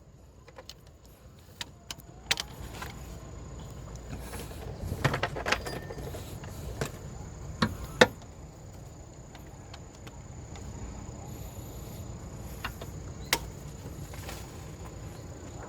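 Scattered metallic clicks and clinks of hand tools and parts being handled during car belt work, with a short run of rattling about five seconds in and sharp knocks around eight and thirteen seconds.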